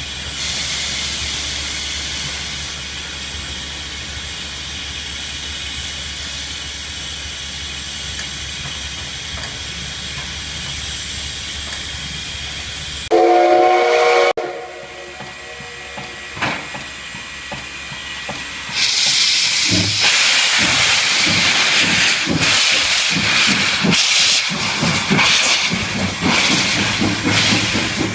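LV-class steam locomotive hissing steam steadily, then giving one short blast on its steam whistle about halfway through, the loudest sound. In the last third comes loud rushing steam with irregular chuffs.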